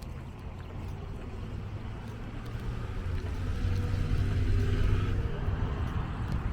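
A car driving past, growing louder to a peak about four to five seconds in and then easing off, over a steady low rumble.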